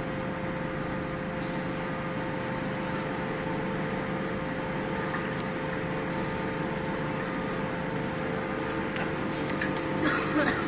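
Vertical cardboard baler's hydraulic pump running steadily, an even mechanical hum with one steady tone over it, and a few sharp knocks near the end.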